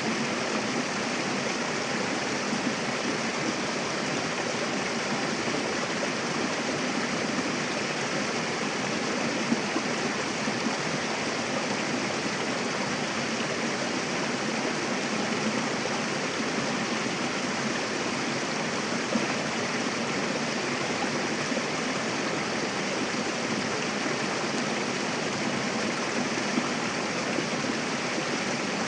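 Mountain river flowing and splashing over rocks, a steady rushing of water with small splashes here and there.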